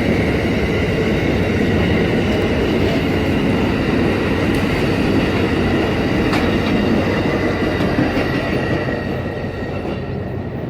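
Train running past on the rails: a loud, steady rumble with clickety-clack and faint steady high tones, easing off a little near the end.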